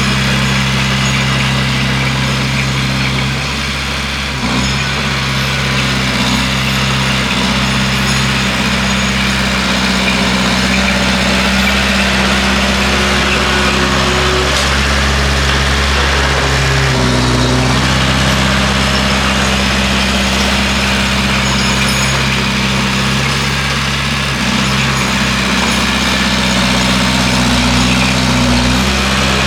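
Bulldozer's diesel engine running steadily, its pitch shifting slightly a few times.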